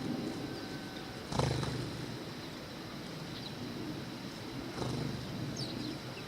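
Low rumbling outdoor noise that surges twice, with a few faint, quick sparrow chirps near the end.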